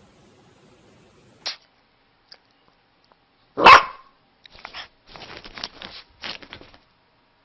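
A dog barks once, loudly, about halfway through, after a short sharp sound; then comes a run of rattling, scuffling noises for a couple of seconds.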